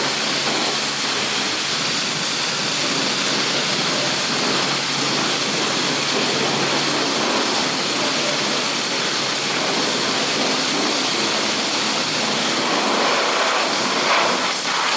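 Steady wind rush over a small action-camera microphone on a moving motorcycle, with the KTM 390 Adventure's single-cylinder engine running faintly underneath. The noise swells briefly near the end.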